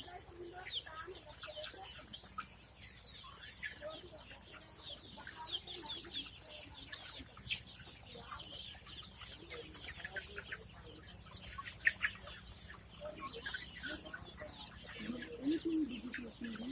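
A flock of guinea fowl and hens calling and clucking, many short overlapping calls throughout, with lower clucks near the end.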